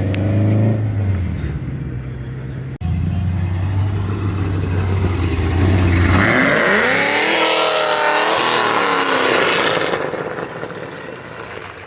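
A car engine running loud at steady revs, then accelerating hard about halfway in with a rising engine note and a loud hiss of exhaust and tyre noise, fading as it pulls away.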